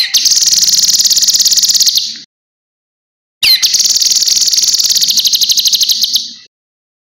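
Cucak kinoi singing: two long, high, rapid rattling trills, each opening with a quick falling note, separated by a pause of about a second.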